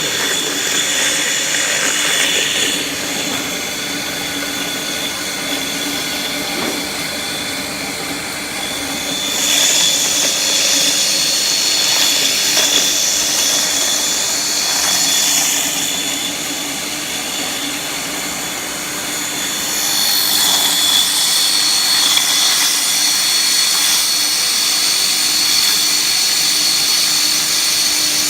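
KNC80 peanut butter grinder running steadily with a high whine and a hissing grind, growing louder about ten seconds in and again about twenty seconds in.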